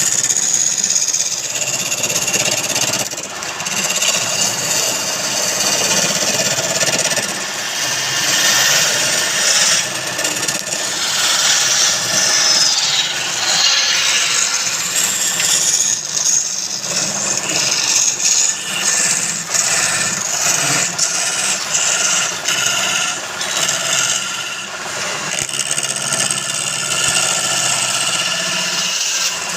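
A tool cutting and scraping wood spinning on a wood lathe: a continuous scraping hiss that swells and eases, over a steady low hum.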